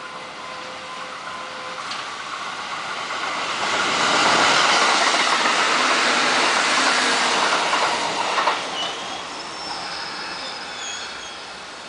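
A train passing by on the rails: the noise builds to a peak in the middle and then fades, with a few thin high-pitched squeals near the end.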